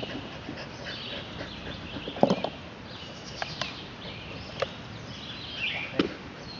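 Birds singing steadily in the background over an outdoor hiss, with a few short thuds; the loudest comes about two seconds in.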